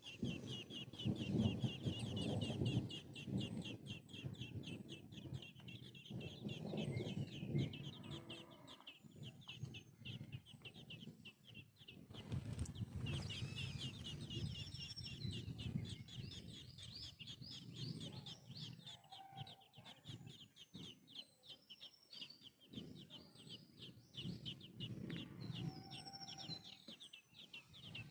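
Sparrow nestlings begging in the nest: a fast, continuous run of high, thin cheeps, with bursts of lower, rougher sound coming and going.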